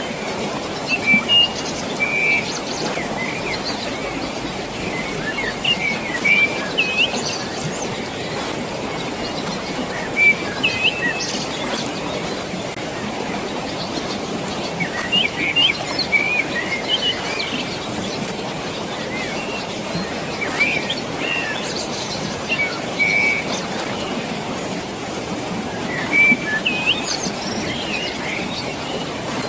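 Birds chirping and whistling in short scattered phrases over a steady rush of flowing water.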